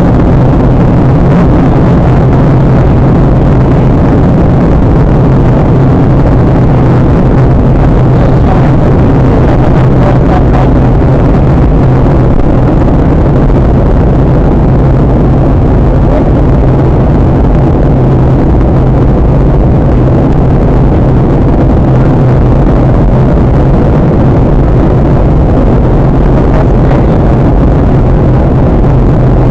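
Steady cabin noise of a Boeing 737-800 airliner in flight on its approach: the rush of airflow and the CFM56 turbofan engines, with a low steady hum under it.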